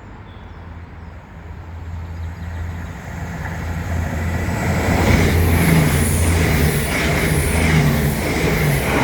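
Irish Rail ICR (22000 class) diesel multiple unit approaching and running through the station fast, growing louder over the first few seconds. It is loudest from about five seconds in, with a steady low engine hum and a beat repeating about once a second.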